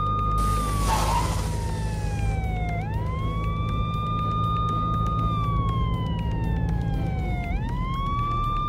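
Police siren wailing: each cycle rises quickly, holds a high note, then falls slowly, repeating about every four and a half seconds, over a low steady hum. A brief hiss of noise comes about a second in.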